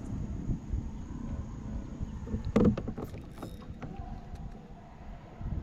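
Fishing kayak on the river: water and handling noise over a low rumble, with one knock about two and a half seconds in and a few small clicks after it.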